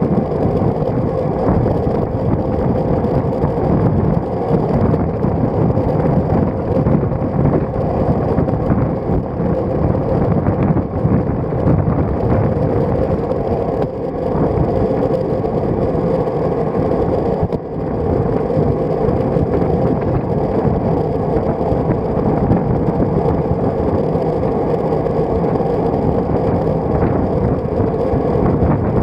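Steady wind rush over a road bike's stem-mounted action camera, mixed with tyre and road noise while riding, with a steady hum underneath.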